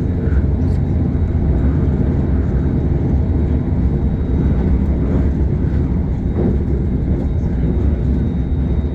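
KLIA Express electric train running along the track: a steady low rumble of the carriage and wheels, with a faint steady high whine.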